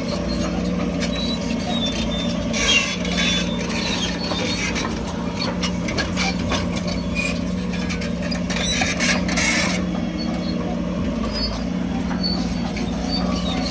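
Heavy diesel earthmoving machinery running steadily with a constant low hum. Two spells of metallic clanking and squeaking rise over it, about three seconds in and again near nine seconds.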